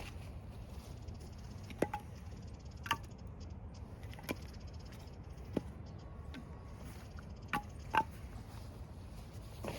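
About seven sharp clicks and knocks at irregular intervals, the loudest near the eighth second, over a steady low outdoor rumble.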